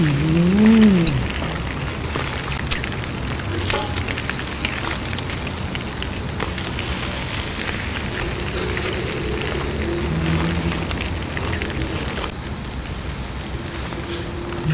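Close-miked eating: crunchy food being chewed, with many wet clicks and crackles from the mouth throughout. A closed-mouth "mmm" hum rises and falls in pitch in the first second.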